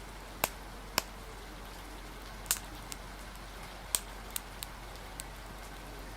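Steady rain ambience with a wood fire crackling: about eight sharp, irregular pops stand out above an even hiss.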